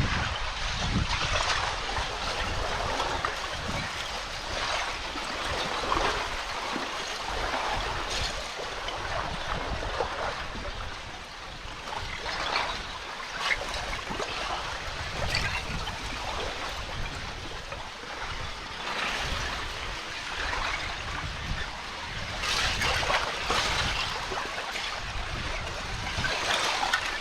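Candle ice, loose columnar ice crystals on a glacial lake, clinking and tinkling as a swimmer pushes through it, with water splashing and sloshing. Many small irregular clinks come in clusters, a little louder a few seconds before the end.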